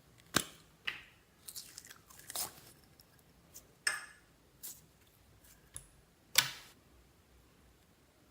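Slime being squeezed and worked by hand, giving a string of irregular sharp pops and crackles, with a quick cluster of them about two seconds in and the loudest pop near the end.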